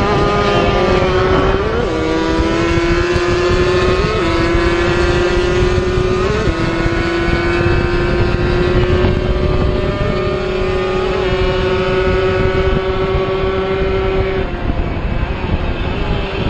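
Two-stroke racing motorcycle engines running hard at high revs. The engine note jumps briefly a few times in the first six seconds, then holds nearly level before fading near the end.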